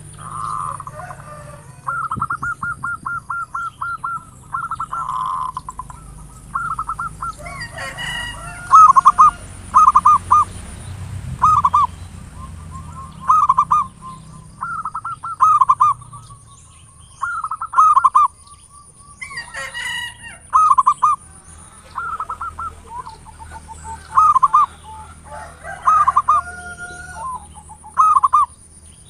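Zebra dove (perkutut) cooing: phrase after phrase of rapid staccato coos every second or two, some of them loud. Brief higher chirps from other birds come twice, about a third and two-thirds of the way through, over a faint steady high whine.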